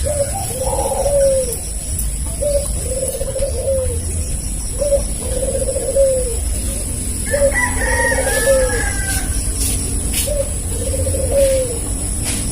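Spotted dove (tekukur) cooing, the same phrase repeated steadily about once every second and a half: a short note, then a longer note that falls away. About seven and a half seconds in, a rooster crows once over it.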